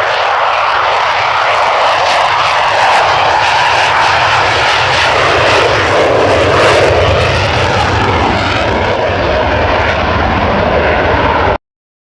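Eurofighter Typhoon's twin Eurojet EJ200 turbofans, loud steady jet noise that cuts off suddenly near the end.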